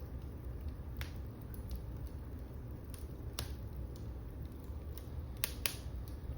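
Wood fire in a fireplace crackling: scattered sharp pops over a steady low rumble, two loud pops close together near the end.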